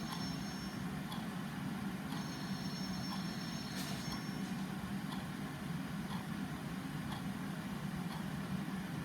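Clock ticking faintly about once a second over a steady low rumble of background ambience. A high thin tone sounds briefly at the start and again from about two seconds in, and a sharper click comes near four seconds in.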